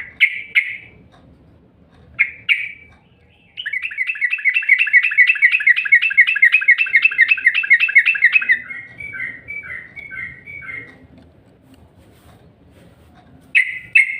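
Yellow-vented bulbul (trucuk) song: a few short chirps, then a long fast trill of repeated notes lasting about five seconds, which slows into separate notes before stopping. Two more chirps come near the end.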